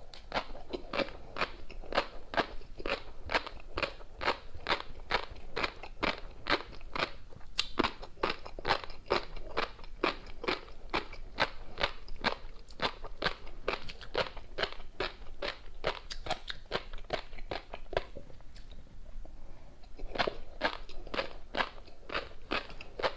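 Close-miked chewing of a mouthful of tobiko flying-fish roe and crunchy seafood topping: crisp pops and crunches, about three a second, with a short pause about three quarters of the way through.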